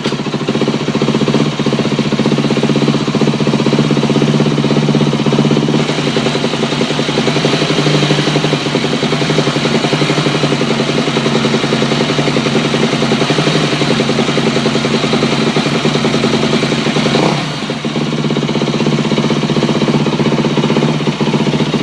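Yamaha YZ250F four-stroke single-cylinder engine idling steadily just after starting, with the clicking from the left side of the engine that the owner suspects is piston slap or a cam chain guide. The engine sound dips briefly once, about three-quarters of the way through.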